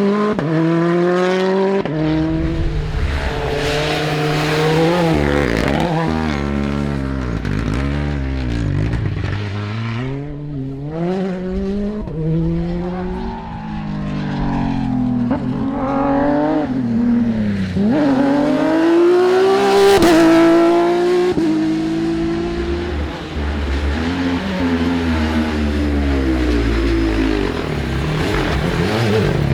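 Rally car engines revving hard on a stage, the pitch climbing through each gear and dropping at every shift and lift-off, with cars passing by close.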